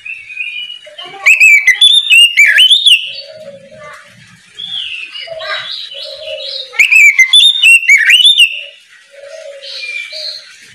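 Oriental magpie-robin singing: two loud bursts of rapid, sweeping whistled notes, the first about a second in and the second about two-thirds of the way through, with softer calls between them.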